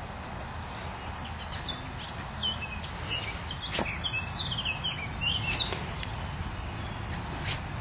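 A small bird singing a quick run of short, high, mostly falling chirps for a few seconds in the middle, over a steady low rumble of outdoor background noise.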